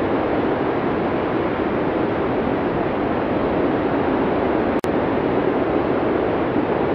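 Blizzard wind sound effect: a steady, dense rush of wind noise, strongest in the low-middle range. A split-second dropout breaks it about five seconds in.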